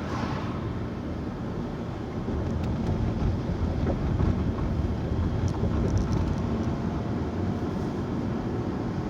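Car driving along a road, heard from inside the cabin: steady engine and tyre rumble, a little louder from about two and a half seconds in.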